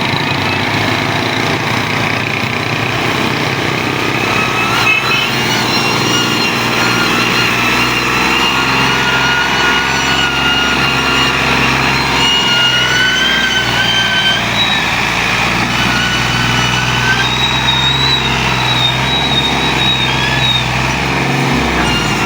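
Diesel tractor engine running steadily while pulling a loaded sugarcane trolley, with high, slightly wavering whines over the engine note for most of the time.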